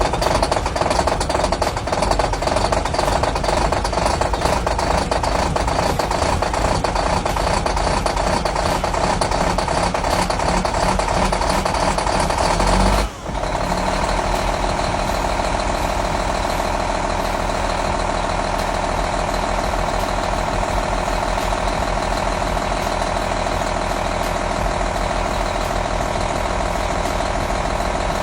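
Detroit Diesel engine running just after a cold start at −12°, rough and busy at first. About thirteen seconds in the sound dips briefly, then it settles into a steadier, even idle.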